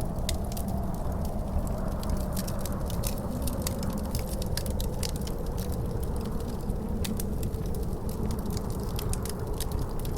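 Wood fire crackling with many sharp pops over a low rumble, mixed with howling wind heard as a soft wavering tone that rises and falls slowly.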